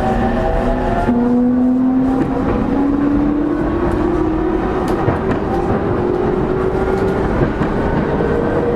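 E231-0 series commuter train's traction motors and inverter whining from inside a motor car, the pitch climbing slowly and steadily as the train gathers speed, over continuous wheel and rail running noise.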